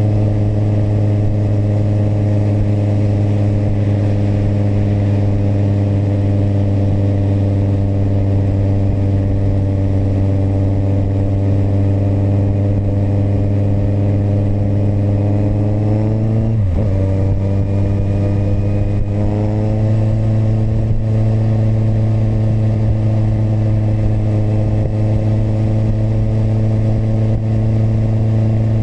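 Kawasaki motorcycle engine running at a steady cruising pitch. About sixteen seconds in, the engine pitch dips sharply for a moment, then settles back to a steady drone.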